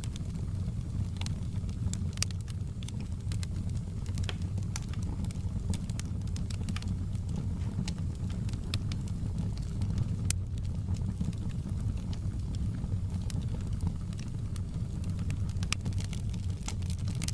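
Campfire burning: a steady low rumble of flames with irregular sharp crackles and pops from the burning wood, several a second.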